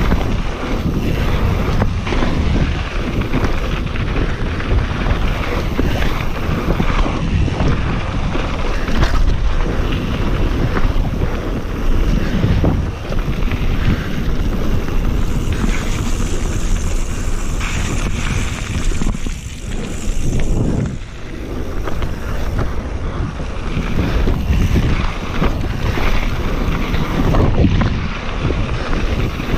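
Wind rushing over the microphone of a mountain bike riding down a rough trail, with the bike rattling and knocking over bumps throughout.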